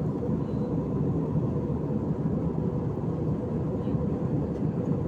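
Steady drone of an airliner in flight heard inside the passenger cabin: engine and airflow noise, low and even, with a faint steady hum on top.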